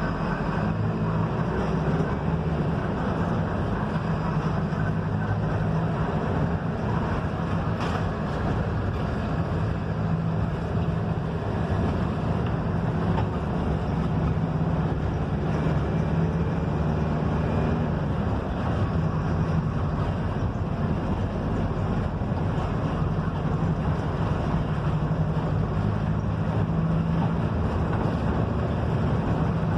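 Diesel engine of a Mercedes-Benz OF-1721 bus running steadily as the bus drives along, a constant low drone mixed with road noise.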